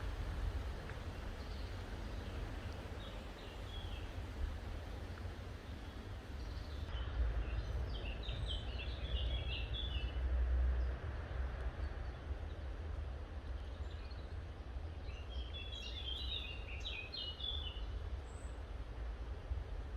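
Garden ambience: a steady low rumble underneath, with a small songbird singing in bursts of quick high chirps, strongest twice, about a third of the way in and again near the end.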